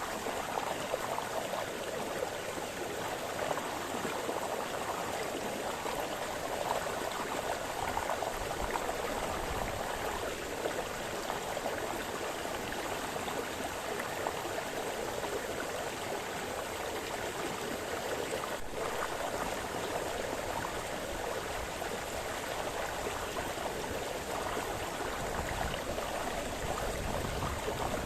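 Brook splashing: a steady, even rush of running water.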